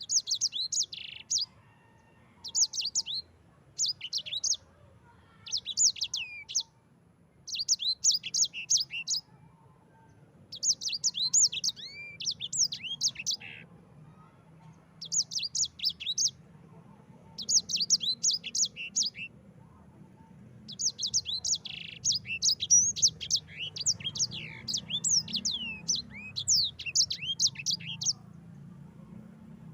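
Black-throated canary (sanger) singing rapid, high, chattering phrases, one every couple of seconds. About two-thirds of the way in they run together into a longer, almost unbroken rolling song.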